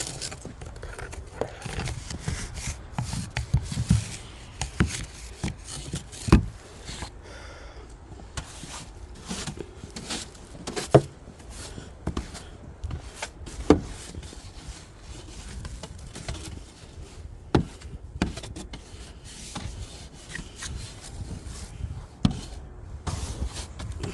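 Irregular scraping and rubbing with scattered sharp knocks as snow and ice are worked off a frozen car.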